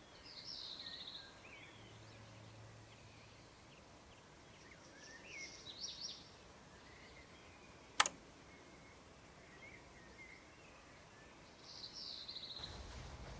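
Faint birds chirping, with short trilled phrases near the start, about halfway through and near the end. There is one sharp click about eight seconds in, and a low rumble comes in near the end.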